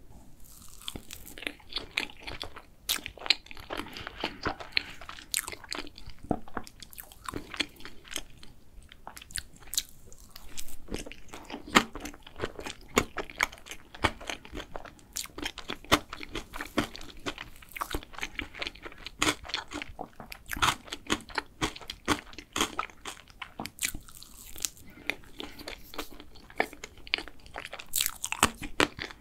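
Close-miked chewing and mouth sounds of a person eating chocolate crepe cake: a steady run of irregular small clicks and crackles, with a fresh bite near the end.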